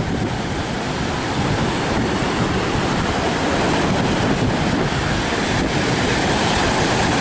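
Rough sea surf breaking on the beach, mixed with strong wind blowing across the microphone: a steady, dense rush of noise.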